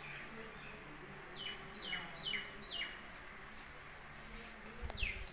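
A bird calling: four quick chirps in a row, each falling in pitch, then another falling chirp near the end, with a brief low bump just before it.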